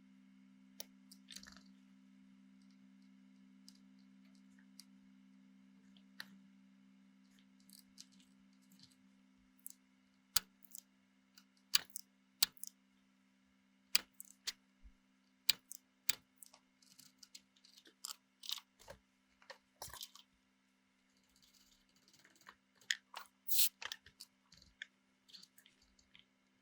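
A steady low hum with a faint higher tone, and a series of sharp clicks and clatters that come more often and louder from about ten seconds in.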